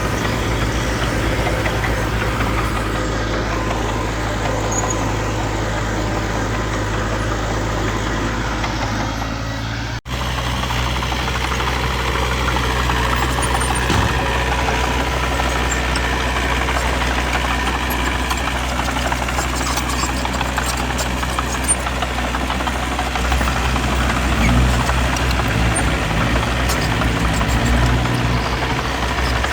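Heavy diesel engines of earthmoving machinery running steadily, with a sudden brief dropout about a third of the way in. The low rumble grows louder during the last few seconds.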